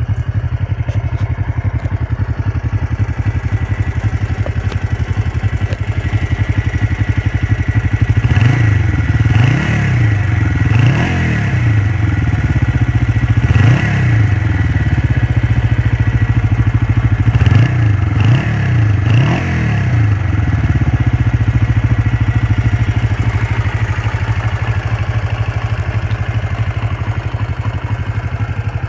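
1980 Honda CB125T's air-cooled parallel-twin four-stroke engine idling steadily. It is then blipped several times in quick succession, each rev rising and falling back, before it settles to idle again.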